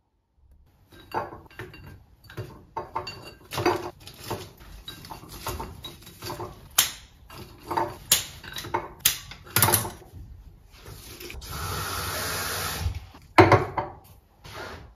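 Kitchen handling sounds: dishes and cutlery clinking and knocking, then water running or pouring steadily for about two seconds, cut off by a couple of loud clacks.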